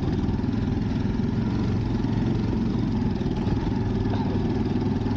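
Motorcycle engine running at a steady speed while riding, with a dense low rumble underneath.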